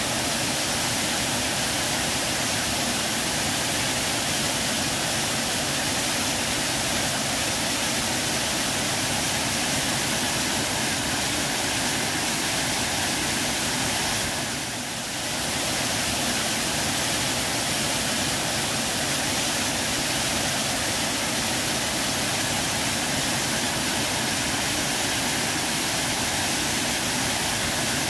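Waterfall: a steady, dense rush of falling water that dips slightly for a moment about halfway through.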